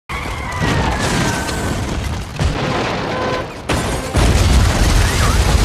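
Loud deep rumbling with heavy low booming, of the kind used for an earthquake, with a few faint steady tones over it; it shifts abruptly a couple of times.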